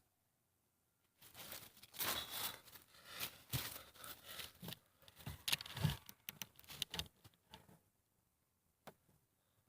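Rustling, crinkling handling noise with many small clicks and knocks for about six seconds, then a single click: gear or the recording phone being moved and handled.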